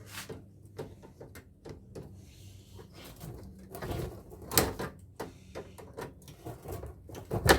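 Scattered clicks and knocks of metal parts of an air-conditioner blower being twisted and worked loose by hand, with a louder knock about halfway through and a few sharp knocks near the end.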